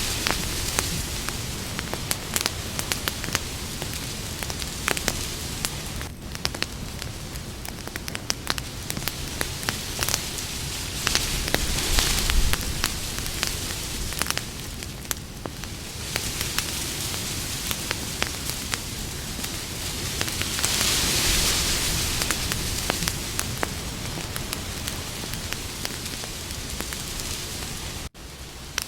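Campfire burning, with frequent sharp crackles and pops over a steady hiss that swells now and then. The sound cuts out for an instant near the end.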